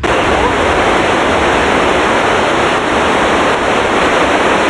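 Police scanner radio hissing with loud, steady static between dispatch transmissions; it starts abruptly as the voice ends and cuts off suddenly just after.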